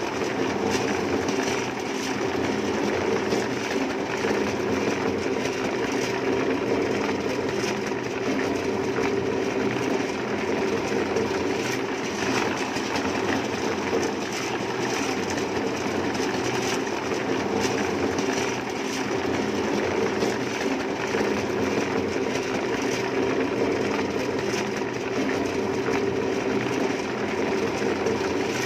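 A machine running steadily, with a low hum and a continuous rattling clatter.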